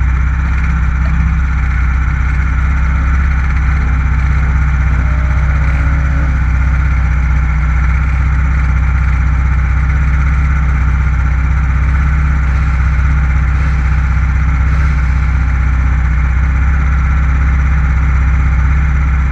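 Stock FXR150 engine running steadily at an unchanging pitch, heard on board, with a deep, dominant low end and no revving.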